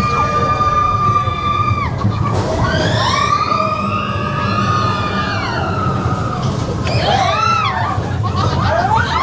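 Riders screaming and whooping on a mine-train roller coaster, over the steady rumble of the train on the track. One long held scream comes first, then several overlapping cries, and quick rising-and-falling whoops near the end.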